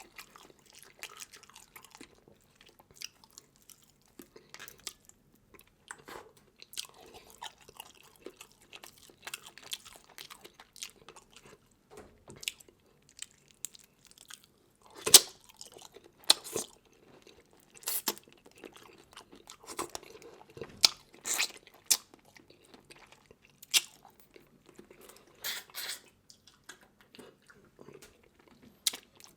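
A person eating seafood close to the microphone: wet chewing broken by irregular sharp crunches and cracks, the loudest about halfway through and again about two-thirds of the way in.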